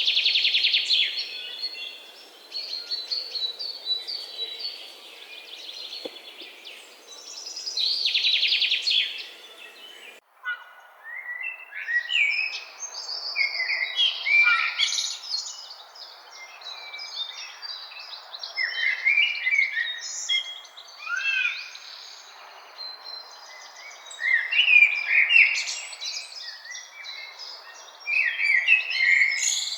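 Wild birds singing in a forest: several birds giving many short, varied chirps and whistles over a soft background hiss. In the first third, long buzzy trills come in bursts about every seven seconds, and about ten seconds in the sound cuts abruptly to a busier chorus of chirps.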